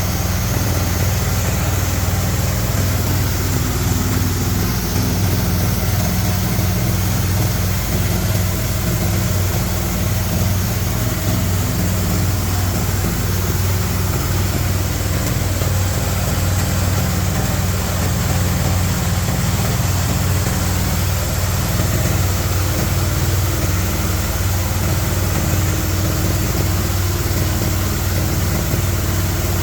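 G-50 hammer mill running steadily as it grinds corn cobs, with a strong low hum over a constant rushing noise.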